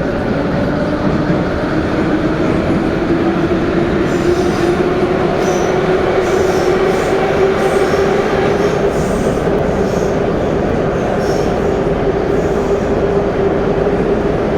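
Metro train of the 81-717 'platypus' type running in the tunnel: a motor whine climbs in pitch over the first half as the train gathers speed, then holds steady over constant rumbling wheel noise, with light high squeals and ticks from the wheels and rails in the middle.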